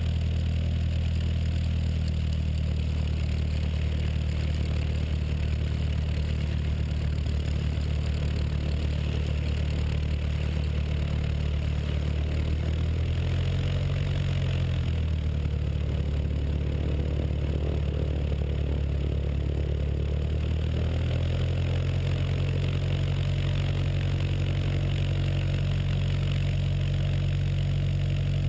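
Aircraft engine and propeller of a Zenith light sport plane, a 100-hp Continental O-200 air-cooled flat-four, droning steadily in flight. Its pitch shifts a little about halfway through, then settles back.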